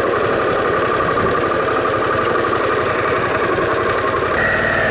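Harley-Davidson Pan America's V-twin engine running at low speed as the motorcycle is ridden in, its note changing a little after four seconds.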